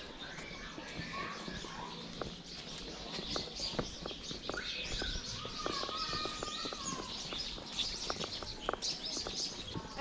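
Birds chirping, many short high calls overlapping one another.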